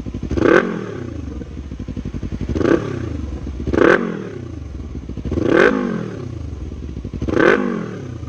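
Yamaha YZF-R3's parallel-twin engine through an Akrapovic full-system exhaust with the baffle fitted, idling and blipped five times. Each rev rises quickly and drops back to idle.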